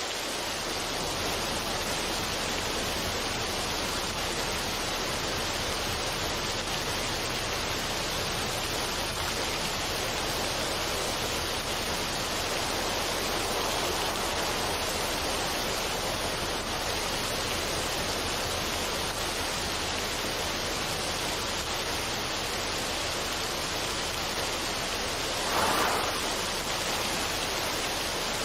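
Steady, even rushing noise, like running water or rain, with a brief louder swell about 25 seconds in.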